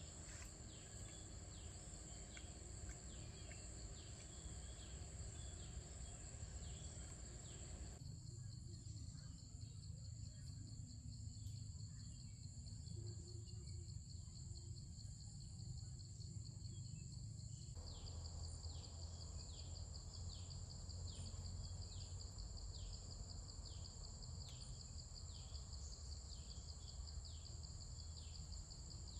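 Insects chirring steadily at a high pitch in the wild, with a short falling chirp repeating about once a second and a low steady hum underneath.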